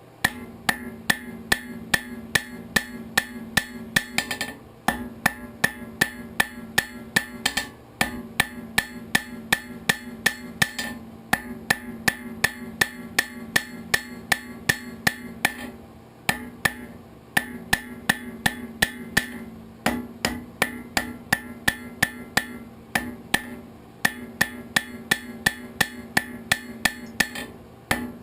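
Hand hammer striking hot steel on an anvil, about three blows a second in runs of several seconds with short pauses, as the socket of an arrowhead is forged. A steady low hum runs beneath the blows.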